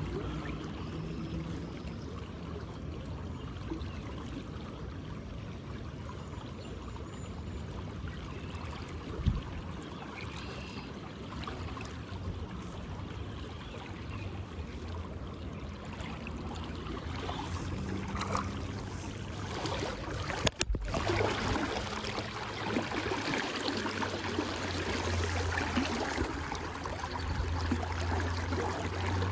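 River water running and trickling in a shallow river, a steady rushing sound with a low rumble under it. A single knock about nine seconds in, and a sharp click about two-thirds of the way through.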